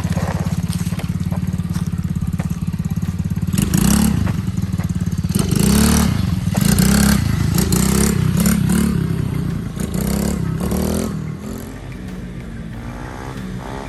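Coolster 110cc dirt bike's small single-cylinder engine running as it is ridden, the revs rising and falling several times with the throttle. It gets quieter near the end as the bike moves away.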